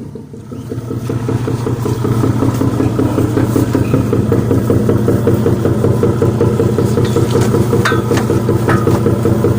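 Fishing boat's inboard engine running under way, rising in level over the first couple of seconds and then holding steady as the net is paid out. A few sharp knocks come near the end.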